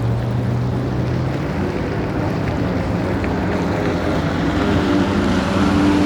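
A motorsport engine running steadily, its pitch stepping up a little and growing louder near the end.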